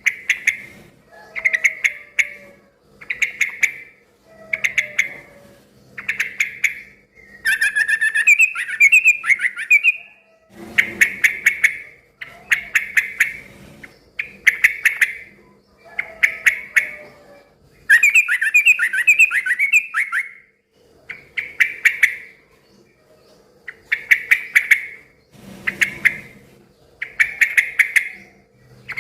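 Sooty-headed bulbul (trucukan) singing in a noisy, chattering way: short bubbly phrases repeated about every second and a half, broken twice by a longer warbling run, at about 8 and 19 seconds in.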